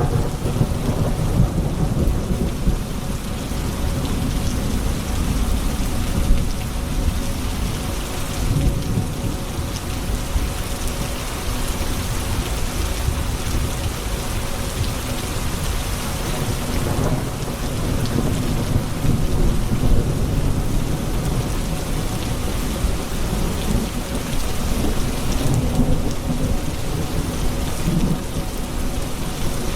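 Thunderstorm: steady heavy rain with low rolling thunder rumbling in and out several times.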